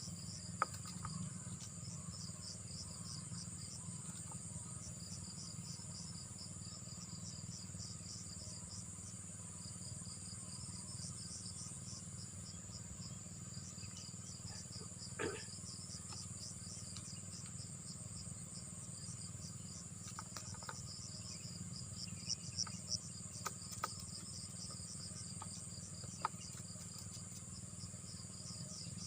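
Insects chirping steadily in a rapid pulsing rhythm over a continuous high whine, with a steady low hum underneath and a few short clicks in the second half.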